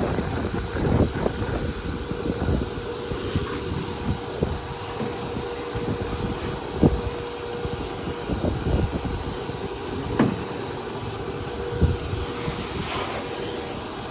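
A steady machine hum with a faint high whine, over which come scattered knocks and clicks.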